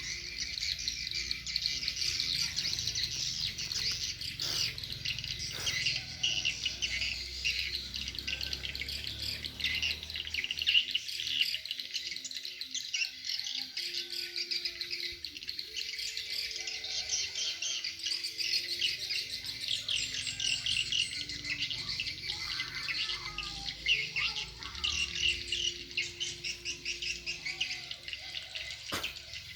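Swiftlet lure calls played through a swiftlet house's speakers: a dense, continuous high twittering of swiftlet chirps, with a lower stepped tone pattern joining about halfway.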